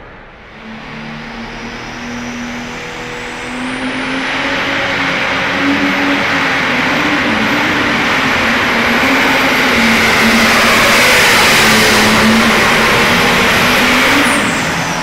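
Competition pulling vehicle's engine at full power, building over the first few seconds and then running loud and steady with a thin high whistle above it, dropping off sharply about fourteen seconds in.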